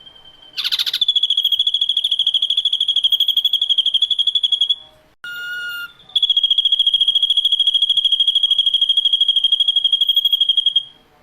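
Ashy drongo singing two long, rapid, even trills on one high pitch, each several seconds long, with a brief harsh note just before the first and a short lower call in the gap between them.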